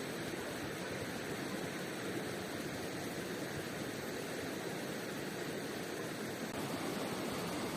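A river rushing: a steady, even noise of running water.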